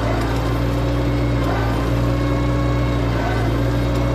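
Tractor's diesel engine running steadily at constant speed, a low even hum with no change in pitch or level.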